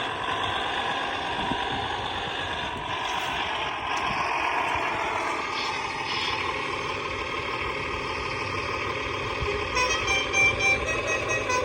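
HG P602 RC military truck's electronic sound module playing a simulated truck engine running steadily, with a series of short horn toots about ten seconds in.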